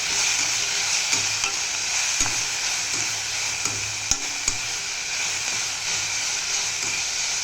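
Chopped vegetables sizzling steadily in hot oil in a kadai while being stirred, with a few sharp clicks of the spatula against the pan.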